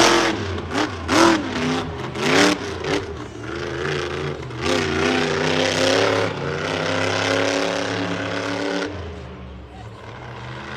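Monster truck engine revving in sharp bursts, then held at high, wavering revs, easing off about a second before the end.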